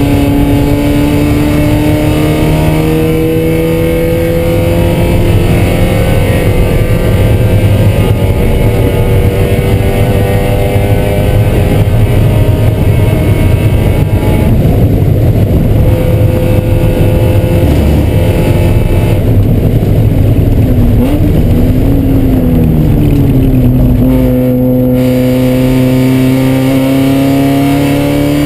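Race car engine heard from inside the cockpit, running hard at track speed with its pitch climbing slowly. Partway through the note turns rougher and is blurred by road and wind noise, its pitch wavers up and down near the two-thirds mark, then it steadies and climbs again near the end.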